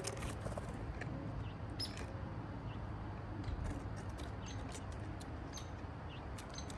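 Scattered brief, high-pitched bird chirps and ticks over a steady low rumble.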